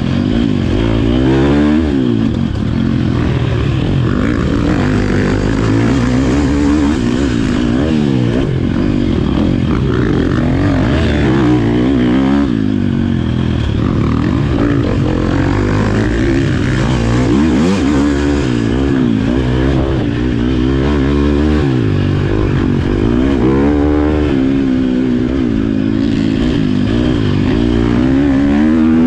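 Motocross bike engine revving hard, its pitch climbing and dropping back over and over every second or two as the throttle is worked.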